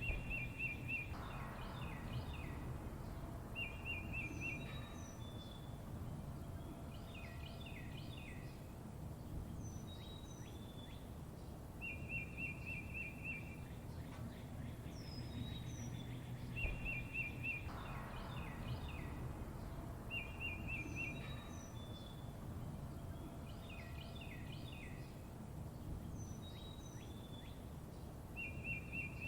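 Songbirds chirping, with short high whistles, clusters of chirps and a rapid trill of about eight notes recurring every few seconds, over a steady low background hiss. The same sequence of calls repeats about every 16 seconds, as in a looped recording.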